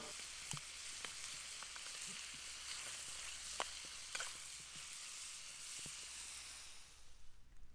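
Bacon and onions frying in a pan: a steady sizzle with a few sharp pops. The sizzle stops about seven seconds in.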